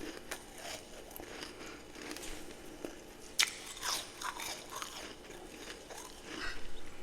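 A person biting and chewing ice in a series of crisp crunches. The sharpest, loudest crack comes about three and a half seconds in, and a quicker run of crunches comes near the end.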